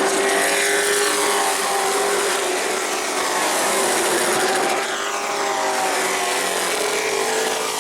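Race trucks' engines running at speed on an asphalt short track, several passing with their pitch sliding up and down.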